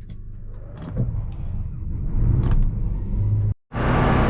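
Combine harvester's diesel engine starting and running, growing louder about a second in and again near two seconds. After a brief break near the end, the combine is heard at work, loud and steady.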